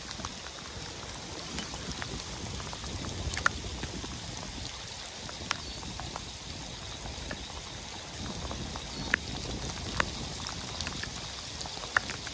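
Heavy rain pouring down, a steady hiss with a few sharp, irregular ticks of drops striking close by.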